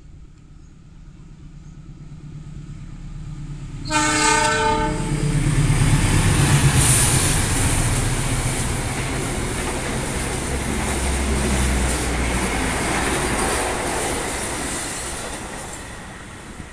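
Diesel-hauled passenger train running through a station: the locomotive's rumble builds, its horn sounds for about a second about four seconds in, then the loud rush and clatter of wheels on rails as the coaches pass, fading near the end.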